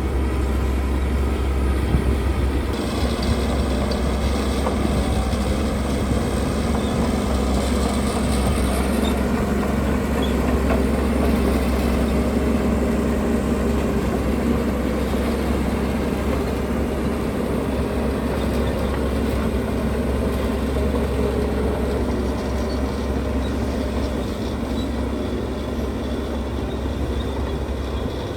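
Heavy diesel earthmoving machinery running steadily, a continuous deep engine rumble.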